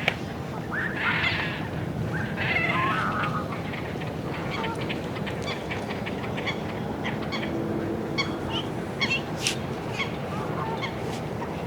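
Geese honking, with a few loud calls in the first three seconds, over a steady outdoor background. Many short, sharp clicks follow through the rest.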